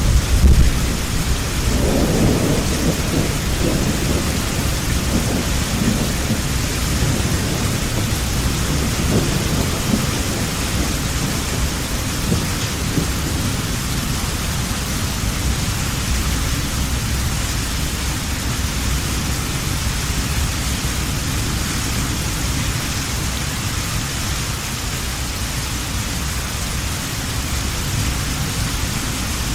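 Heavy rain falling steadily, with low rolling thunder rumbling through the first ten seconds or so and then dying away, leaving the steady rain.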